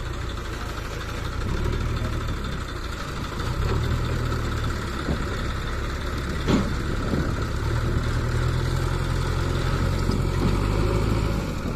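Heavy diesel machinery working during a stuck-tractor recovery: an engine idling and repeatedly revving up under load for stretches of a few seconds, with one sharp knock about halfway through.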